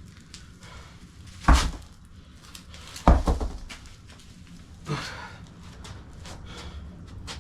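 Three heavy thuds during a squat workout, about a second and a half apart, the middle one loudest and deepest.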